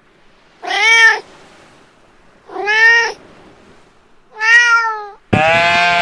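Domestic cat meowing three times, each meow about half a second long and about two seconds apart. Near the end a loud animal bleat cuts in abruptly.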